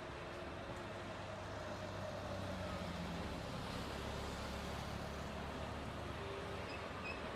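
Steady low engine rumble, a little louder from about two seconds in.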